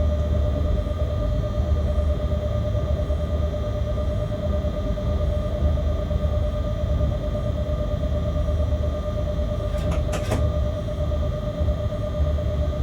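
Freight locomotive cab noise: a steady low rumble with several constant whining tones. A couple of sharp clicks about ten seconds in.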